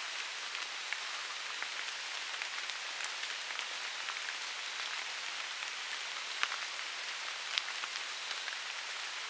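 Steady patter of raindrops on forest leaves, with scattered sharper drips ticking through it.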